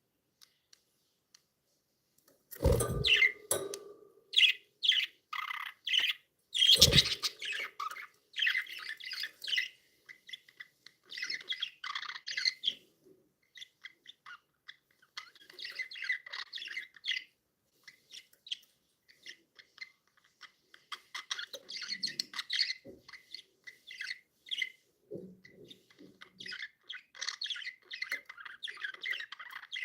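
Pet budgerigars chirping and chattering in short, busy bursts, with two loud thumps about three and seven seconds in. It is quiet for the first couple of seconds.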